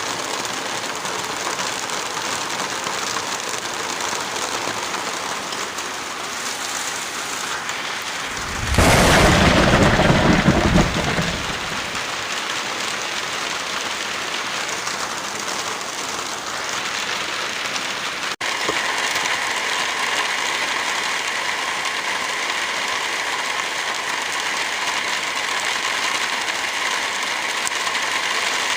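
Heavy rain falling in a steady hiss. About nine seconds in, a loud low rumble swells over it for about three seconds. Just past the middle the sound cuts out for an instant and the rain resumes with a slightly different texture.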